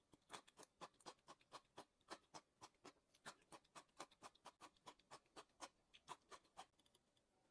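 Close-miked chewing of a crisp green vegetable strip, a steady run of small crunches about four a second.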